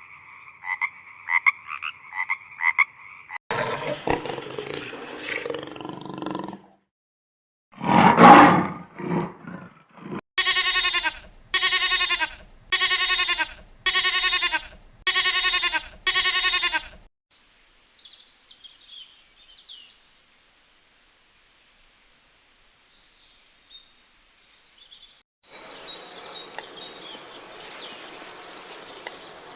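A run of different animal calls, one after another: frogs croaking in a quick rhythm for the first three seconds, a louder rough call, then a single very loud call about eight seconds in. Six evenly spaced pitched calls follow, then faint chirps and outdoor noise with birds near the end.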